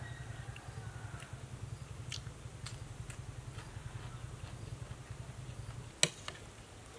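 Someone eating crisp stir-fried green bell pepper and cauliflower, with a few faint crunching clicks, over a steady low hum. The hum stops about six seconds in, with one loud sharp click.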